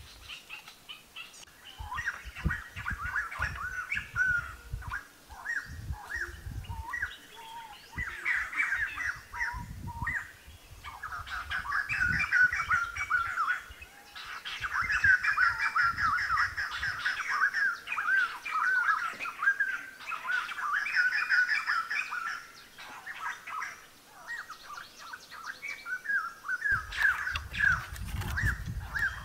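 Wild birds singing in the forest canopy: phrases of rapid, chattering chirps that come and go every few seconds. Low thumps are mixed in, heavier near the end.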